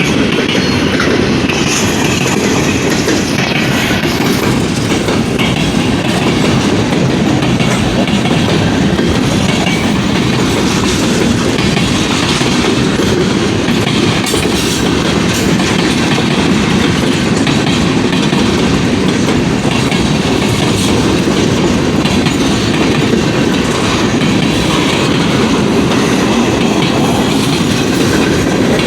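A freight train's cars rolling past on the rails: a steady, loud rumble with wheel clatter over the rail joints.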